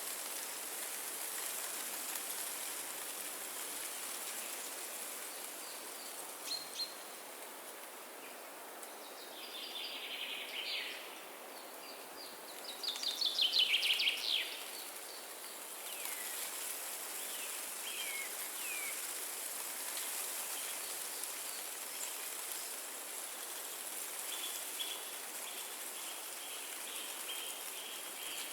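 Wind through forest trees as a steady hiss, with songbirds calling over it: a few short chirps, then a loud, rapid trill of falling notes about halfway through, and a fast run of high notes near the end.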